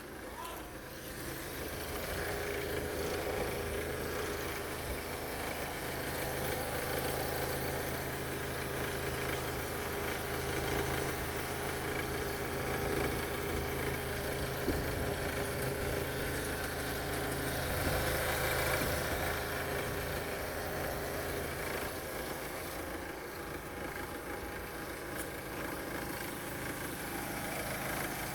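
Ford Transit 2.2 TDCi four-cylinder diesel engine idling steadily.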